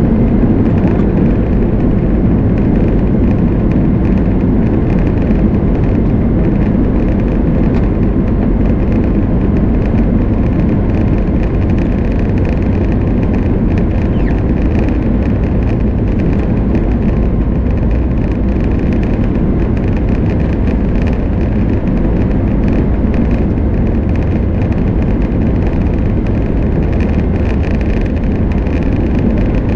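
Boeing 737 MAX 8's CFM LEAP-1B turbofan engines at takeoff thrust, heard from inside the economy cabin: a loud, steady rushing noise with a faint high whine.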